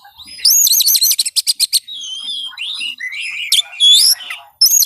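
Oriental magpie-robin (kacer) song: loud, varied, high whistled phrases. A fast run of looping notes breaks into rapid trills, and the looping run starts again near the end.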